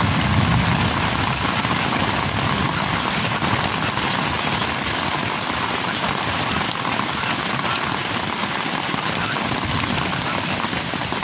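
Heavy rain falling steadily on a tent, heard from inside it.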